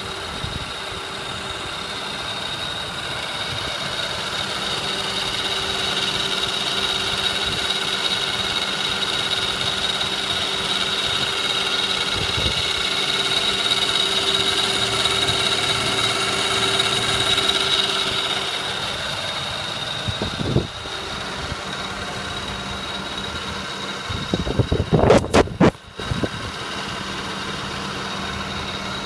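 The 3.3-litre V6 of a 2005 Lexus ES 330 idling with a steady high whine over the engine note, growing louder through the middle. The owner is asking what it is and suspects the timing belt, a belt tensioner or bearing, or the water pump. A few brief loud knocks come near the end.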